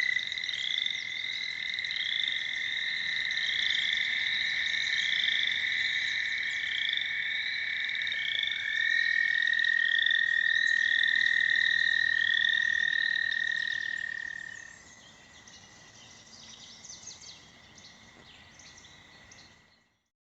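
American toads trilling: long, steady, high-pitched trills, two overlapping toads, the second starting about halfway through and stopping a few seconds later. Above them a higher call repeats about once a second. After the trills stop, only faint pond calls remain until the sound fades out at the end.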